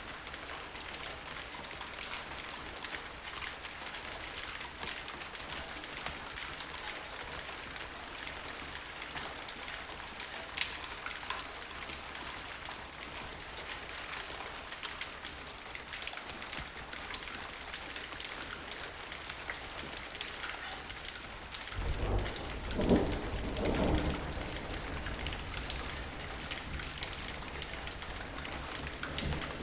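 Steady rainfall, a constant hiss with individual close drops clicking. About three quarters of the way through, a low roll of thunder rumbles for two or three seconds.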